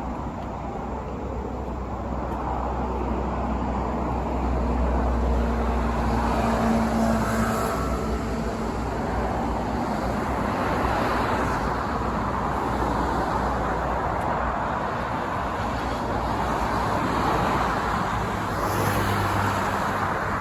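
Road traffic: cars passing one after another, a continuous rushing tyre-and-engine noise with a low rumble that swells and fades several times.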